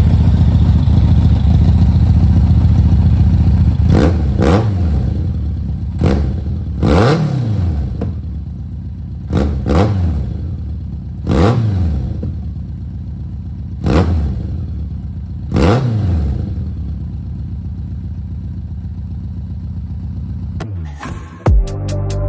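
1991 BMW K1 motorcycle's inline four-cylinder engine running through its aftermarket exhaust, blipped about nine times so that the exhaust note rises and falls with each rev, then settling back to a steady idle.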